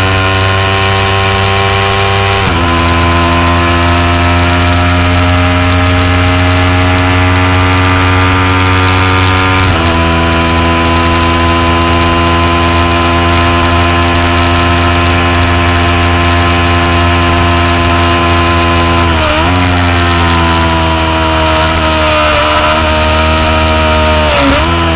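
Kawasaki Ninja 250R's parallel-twin engine running hard at high revs, heard from the bike's tail. The note breaks sharply for gear changes about 2.5 and 10 seconds in. After a dip around 19 seconds, the pitch sinks slowly as the bike slows.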